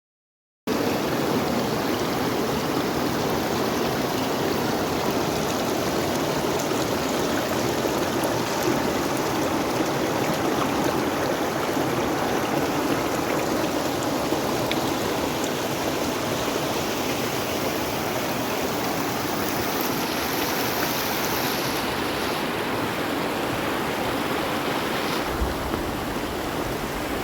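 Mountain river rushing: a steady, loud, even water noise, with a brief low bump near the end.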